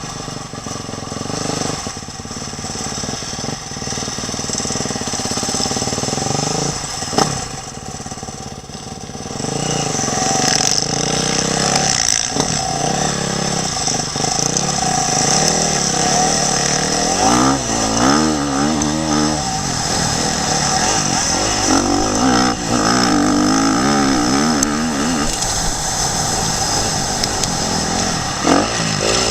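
Motocross bike engine being ridden hard, its revs repeatedly rising and falling with gear changes and throttle, heard from a helmet-mounted camera. It gets louder about a third of the way in, with quick up-and-down revving in the second half.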